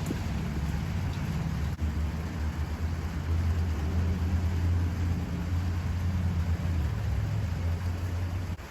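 A car engine running with a steady low rumble that grows louder about three seconds in and drops off suddenly near the end.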